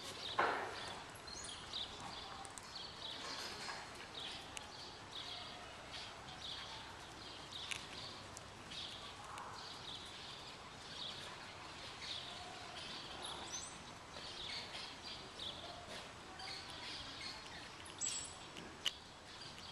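Small birds chirping over and over against a steady hum of ambient noise, with a sharp knock about half a second in and a click near the end.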